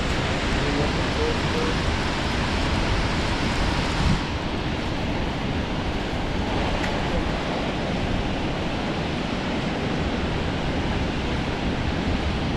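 High Force waterfall: a steady roar of falling water, with a short knock about four seconds in.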